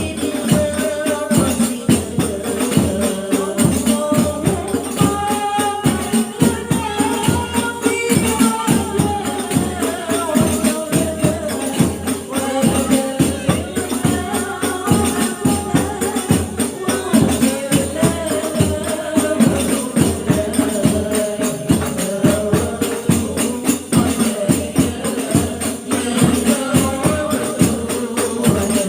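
Group of women singing sholawat together to a fast, steady beat on hadroh frame drums.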